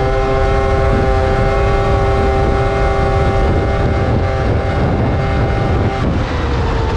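1997 Polaris XCR 600 snowmobile's three-cylinder two-stroke engine running at a steady speed through its factory triple pipes, under a heavy low rumble. About six seconds in, the engine note weakens and drops slightly in pitch as the revs ease off.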